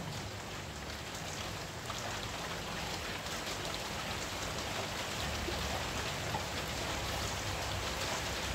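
Steady rain falling, with scattered drops ticking on surfaces; it grows a little louder about two seconds in.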